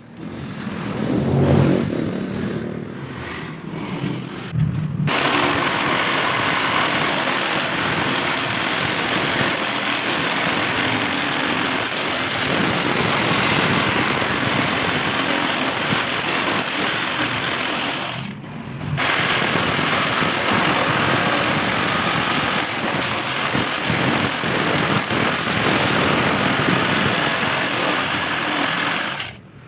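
Electric jigsaw cutting through iron or steel: after a few seconds of lower, uneven sound the blade bites and a steady harsh cutting noise sets in, breaks off for a moment partway through, resumes, and stops just before the end.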